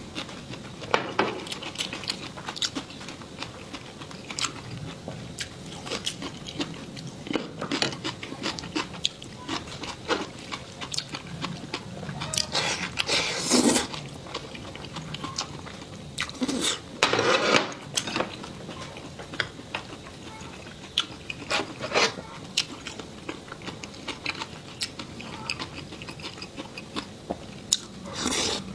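A person eating close to the microphone: chewing and crunching with many small clicks, and a few louder bursts around the middle.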